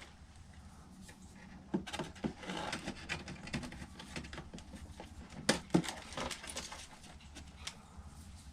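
Hand-dismantling of a small karaoke machine: scattered clicks, snaps and light clatter of hand tools and plastic and metal parts being handled, the sharpest knock about five and a half seconds in. A steady low hum runs underneath.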